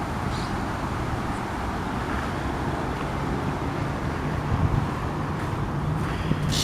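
Steady city background of road traffic rumble, with wind on the microphone. A short high bird chirp comes near the end.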